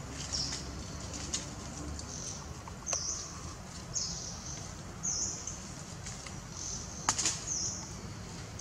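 Forest birds giving short, high chirps that fall in pitch, repeated roughly once a second, with a few sharp clicks and a steady low rumble underneath.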